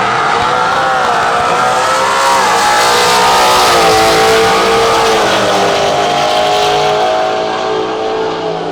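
Drag race cars accelerating hard down the strip, their engine note climbing and then dropping several times as they shift gears.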